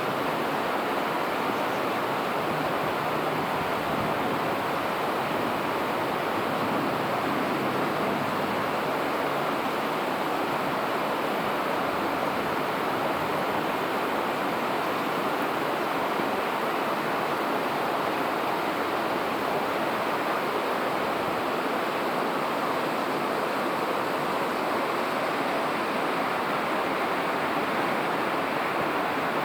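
Steady rushing of river water flowing beneath a bridge, an even noise with no breaks or single events standing out.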